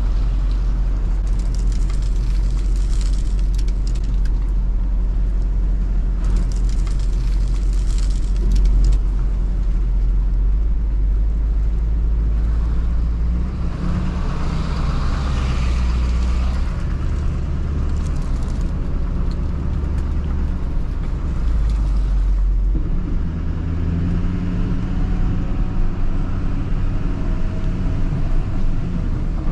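Snow plow truck's engine running steadily, its note shifting about halfway through and again about two-thirds of the way in, with a few seconds of hissing in the middle.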